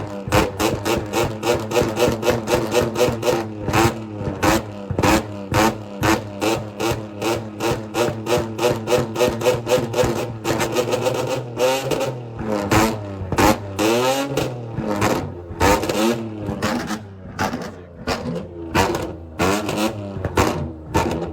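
Modified car engine revving hard at a takeover, with a rapid, even string of sharp exhaust pops and bangs at about four a second. The engine note rises and falls in several quick revs past the middle.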